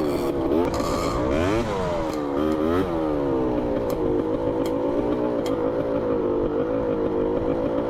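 Dirt bike engine revving up and down several times for the first few seconds, then running at a nearly steady throttle, with a few sharp clicks of clatter.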